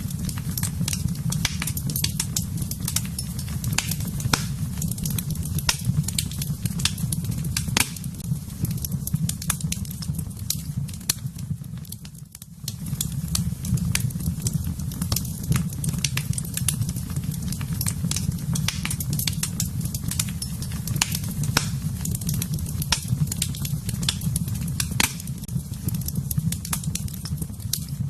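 Fire in a fireplace crackling, with many sharp snaps and pops over a steady low rumble of burning. The rumble briefly drops away about twelve seconds in.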